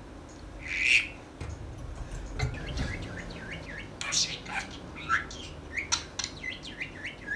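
Small pet parrot chattering: a long string of quick, high chirps and short rising glides, with one louder squawk about a second in.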